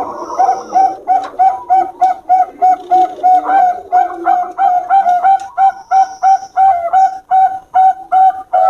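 Bangkok-type zebra dove (perkutut) cooing, a long run of quick, even notes at about three a second.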